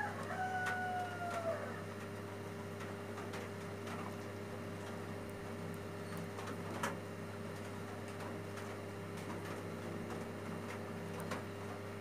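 A bird calls once in the first second or two, one long held note that falls away at the end, over a steady low hum.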